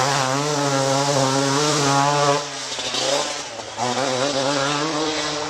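Motorcycle engine held at steady high revs. It eases off about two and a half seconds in and is revved up again a second later.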